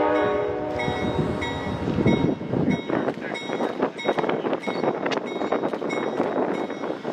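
Train horn chord sounding and cutting off a little under a second in, followed by a train rolling past with clattering wheels. A short high ding repeats about twice a second over it.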